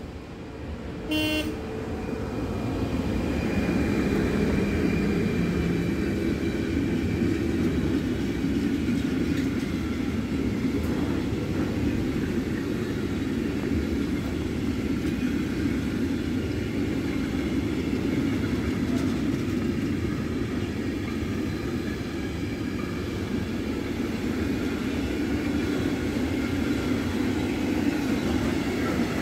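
An electric locomotive gives a short horn blast about a second in, then a container freight train rolls past: a steady rumble of wheels on the rails that builds over the first few seconds and holds.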